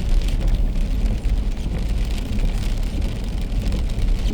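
Car driving on a wet road in the rain, heard from inside the cabin: a steady low road rumble with tyre hiss and faint patter of rain.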